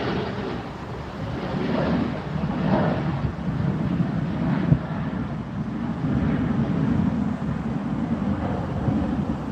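Wind buffeting the microphone in gusts, a rush that swells and fades every second or two, with one brief knock about halfway through.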